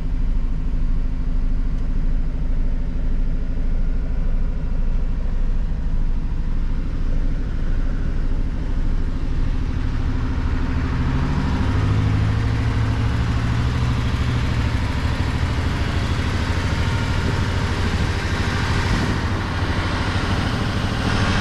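1985 Mercedes-Benz 380SL's 3.8-litre V8 idling steadily. About halfway through the sound turns brighter and fuller, with a brief waver in pitch.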